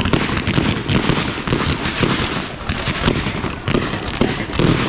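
Fireworks display going off: a dense, rapid string of bangs and crackles, several every second, with the loudest bangs near the end.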